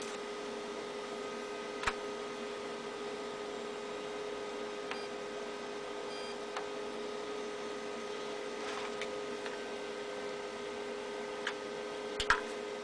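Steady electrical hum and hiss, broken by a few sharp clicks, the loudest near the end.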